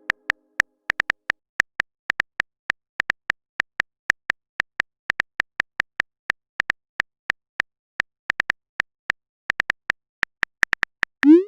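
Quick, unevenly spaced clicks of a phone keyboard, as when a text message is typed out, a few a second with short pauses. Near the end a short rising swoop, like a message-sent sound.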